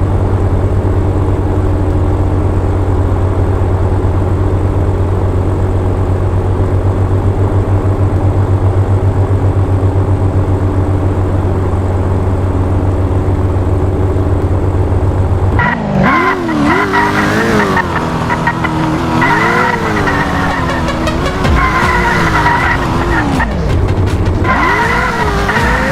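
Drift car's engine idling with a steady low throb, then, a little over halfway in, revving up and down repeatedly with tyres squealing as the car drifts.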